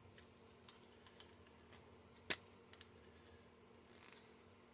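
Faint, scattered clicks and ticks of side cutters working against the bent-over metal tabs of a microwave turntable motor's pressed-together casing. The loudest click comes about halfway through.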